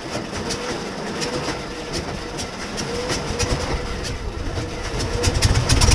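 Hawker Hurricane's Rolls-Royce Merlin V12 aero engine on a cold start, turning over and firing unevenly at about two beats a second over a low rumble, with a steady whine under it. Near the end it grows louder and the firing quickens as the engine catches.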